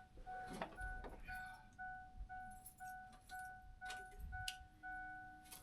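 A Ford F-450's dashboard warning chime sounding faintly and steadily, about two chimes a second, with a few sharp clicks and knocks over it.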